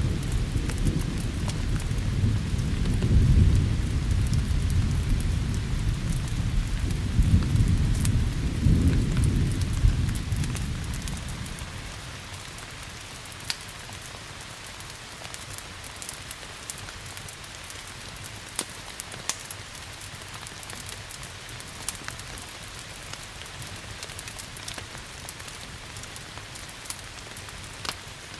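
A long roll of thunder rumbling over steady rain, dying away about eleven or twelve seconds in. After that, steady rain hiss with scattered sharp crackles, as from a wood fire.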